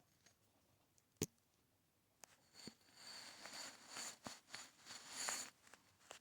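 A single sharp click about a second in, then soft rustling for about three seconds, close by.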